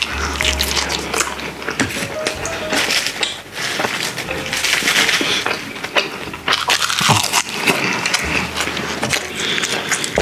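Close-miked eating: biting into and chewing grilled mackerel, with a constant run of wet mouth clicks, smacks and crackles.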